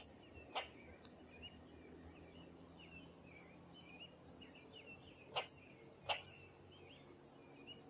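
Small birds twittering with a steady stream of short high chirps. Four sharp, loud clicks cut through: two in the first second and two about five and six seconds in.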